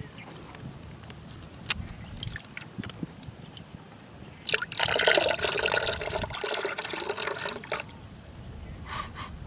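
Water pouring and gurgling for about three seconds, starting about halfway through, with scattered drips and small knocks before it.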